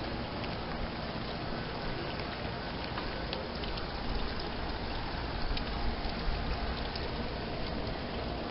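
Outdoor heat pump unit running in heat mode: a steady rushing noise from its fan and compressor.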